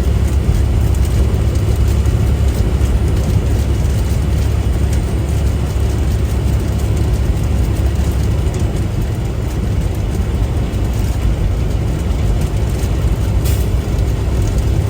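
Steady low drone of a semi-truck heard from inside the cab: engine and road noise while driving.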